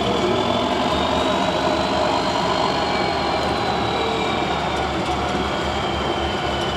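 Heavy off-road trial truck's engine running steadily under load, with a thin high whine that rises a little and then falls back.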